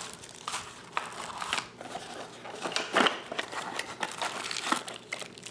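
Plastic packaging crinkling and rustling, with irregular clicks and knocks, as the kit's parts are taken out of the box; the loudest rustle comes about three seconds in.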